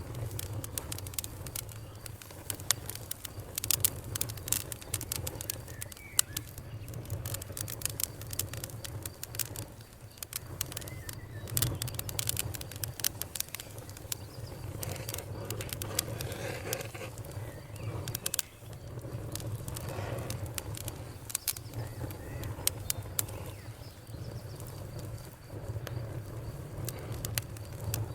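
Fire crackling: frequent sharp pops and snaps, irregular and of varying loudness, over a steady low rumble.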